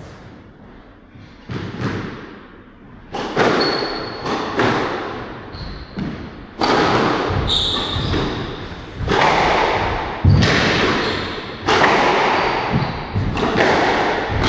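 A squash rally: the ball is struck by rackets and smacks the walls about every one to one and a half seconds, each hit echoing in the court, with short high squeaks of players' shoes between shots.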